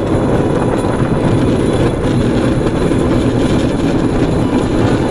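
Bamboo train (norry) under way on the rails: its small petrol engine runs in a steady loud drone.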